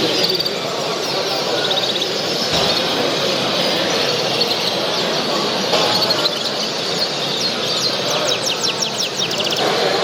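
Many caged show finches and hybrids chirping and singing together over the steady din of a crowded exhibition hall. Near the end one bird sings a rapid run of falling high notes.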